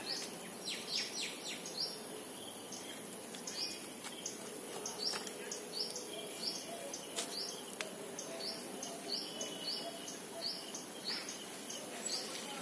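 A bird calling over and over in short, high chirps, about two or three a second, with a quick flurry of calls about a second in. A steady, thin, high-pitched whine runs behind it.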